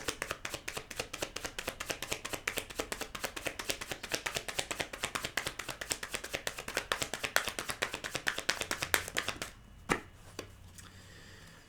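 Tarot cards being shuffled by hand: quick, dry card slaps and flicks, about eight a second, that stop about nine and a half seconds in, followed by a couple of single card taps.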